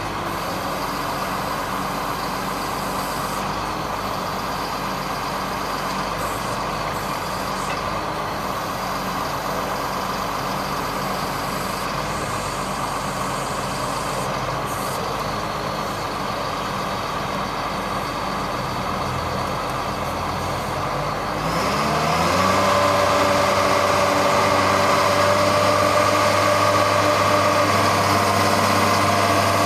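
1999 GMC digger truck's engine running steadily at idle. About two-thirds of the way through, it revs up to a higher steady speed and gets louder, holding there.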